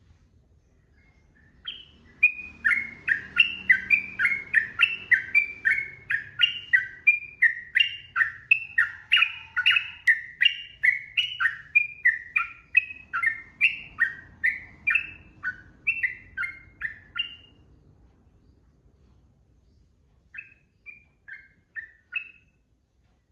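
Sooty-headed bulbul (trucukan) singing a long continuous run of clear, bubbling notes, about two a second for some fifteen seconds, then after a short pause a brief closing phrase.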